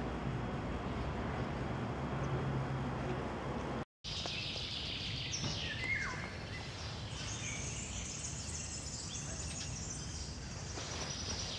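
A steady low background rumble, then a brief dropout about four seconds in. After it, small birds chirp and twitter, with many quick high chirps and a few longer calls over softer outdoor background noise.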